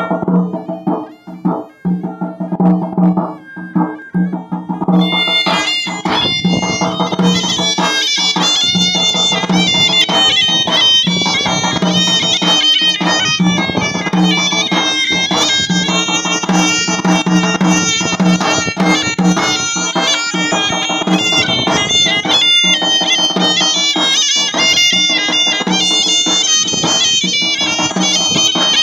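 Folk band music: a loud, piercing wind instrument playing a melody over a steady low drone, with drums beating. The high wind part comes in about five seconds in, after a drum-led opening.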